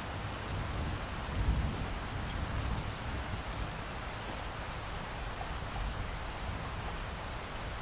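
Steady rain falling, an even hiss of drops, with a low rumble underneath that swells briefly about one and a half seconds in.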